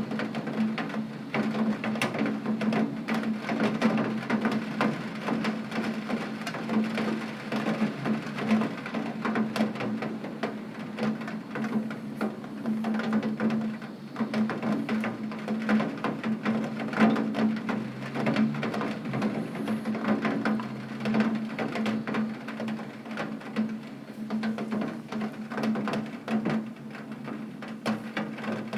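Heavy rain pattering on a window pane, a dense, irregular run of fine taps, with a steady low hum underneath.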